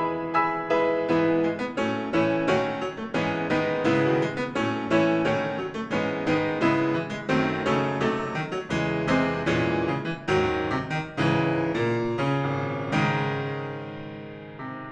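Solo piano playing a classical piece: a quick run of struck notes, then a chord left to ring and fade near the end.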